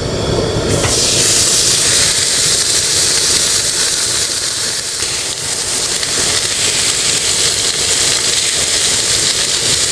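A loud, steady hiss that sets in about a second in and holds, with no distinct strikes or rhythm.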